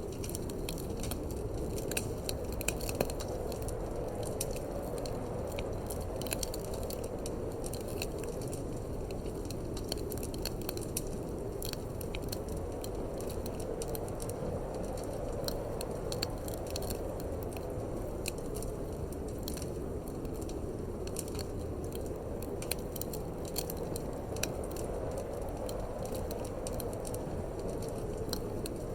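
Wood fire crackling in a fireplace, with many small sharp pops scattered irregularly, over a steady rushing wind.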